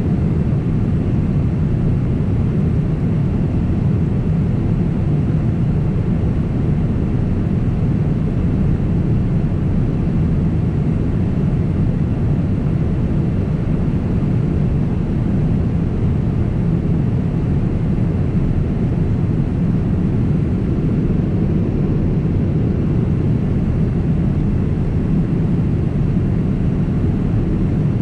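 Steady low roar of airflow and engines inside the cabin of a Boeing 767 in flight.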